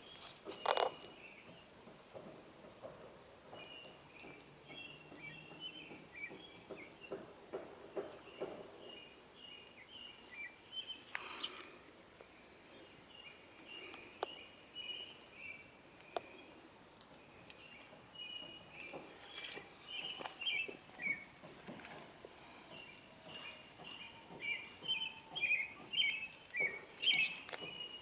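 A bird singing outdoors in bouts of short, quick chirped phrases every few seconds, with a few sharp clicks and soft rustles in between.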